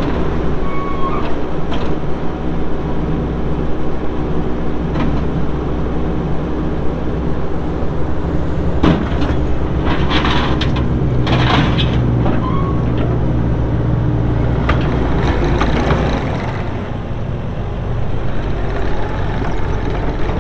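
Kubota SVL75-2 tracked skid steer's diesel engine running under operation, with short hissing, scraping bursts about halfway through and the engine note changing a few seconds before the end.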